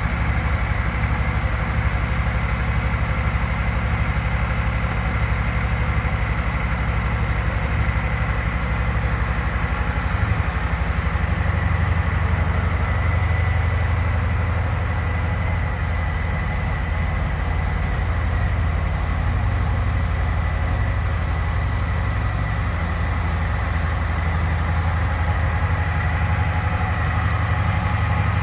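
Harley-Davidson Softail Sport Glide's Milwaukee-Eight 107 V-twin engine idling steadily.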